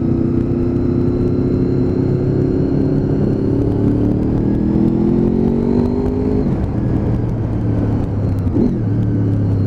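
Honda VFR's V4 engine growling as the motorcycle accelerates, its pitch rising steadily for about six seconds, dropping sharply at a gear change and pulling on again, with wind noise underneath.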